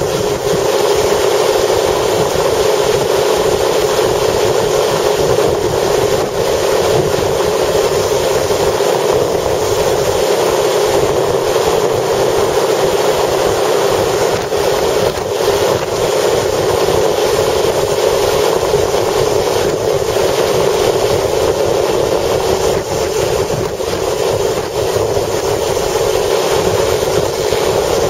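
Steady, loud rush of strong wind together with the running noise of a vehicle, a constant hum under a broad roar with no let-up.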